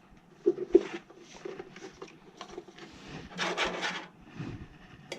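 Irregular rubbing and scraping from furnace parts being handled, with short knocks and a longer, louder scrape about three and a half seconds in.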